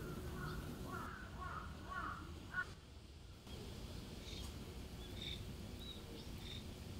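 Birds calling in the background: a run of short repeated calls, two or three a second, that stops about two and a half seconds in, then after a short pause a few faint, high chirps.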